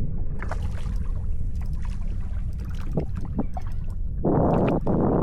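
Wind buffeting the microphone and water around a kayak, with a few small knocks and a louder rushing burst about four seconds in that lasts over a second.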